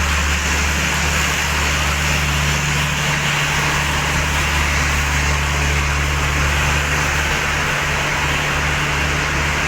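Steady low hum of a diesel train's engine, running at a constant pitch with an even rushing noise over it.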